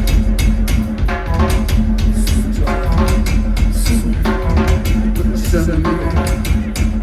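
Rock band playing live and loud: a fast, steady drum beat of about five hits a second over heavy bass and other instruments.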